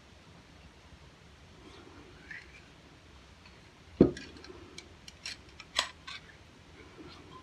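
A single sharp knock about four seconds in, then a quick string of light metallic clicks and taps over the next two seconds: the derringer and its cleaning tools being handled and set down on a bench.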